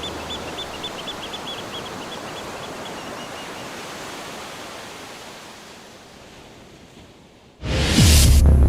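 A steady outdoor noise with a bird chirping rapidly over the first few seconds, slowly fading down. Near the end a sudden loud rush of noise with a deep low hum cuts in.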